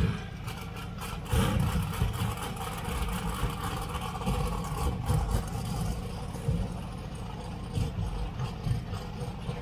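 Drag-race car engines rumbling at the strip, with irregular pops and brief surges in the engine note.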